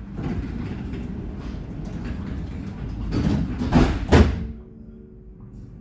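Alstom NGT8D tram heard from inside, rumbling along, with three loud hissing rushes a little past the middle. It then drops to a quieter steady hum.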